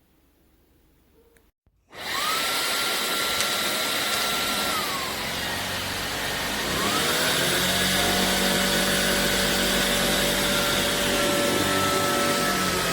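Shark Detect Clean & Empty vacuum motor starting about two seconds in and running with a loud whine, which drops at about five seconds and then rises again to a higher, steady pitch as the suction power changes.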